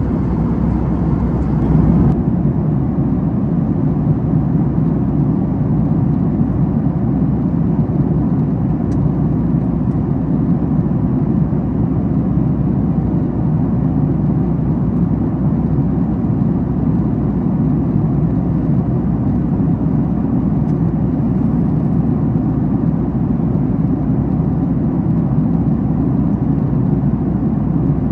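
Steady cabin noise of a Boeing 737 MAX 8 at cruise: the low, even rush of airflow and engine drone inside the passenger cabin. The higher hiss eases slightly about two seconds in.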